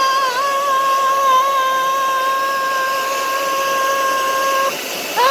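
Hair dryer running: a steady high whine over a rushing hiss, the whine wavering in pitch as it comes up to speed and then holding level. The whine stops about a second before the end while some hiss remains.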